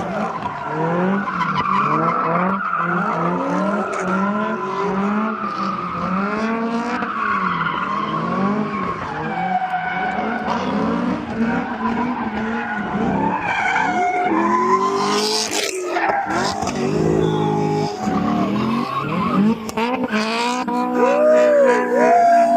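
A car doing donuts: the engine revs up and down over and over while the tires squeal and skid. Near the end a steady high tire squeal comes in.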